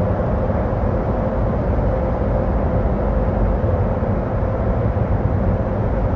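Steady road noise of a car driving: low tyre and engine rumble with a constant mid-pitched hum.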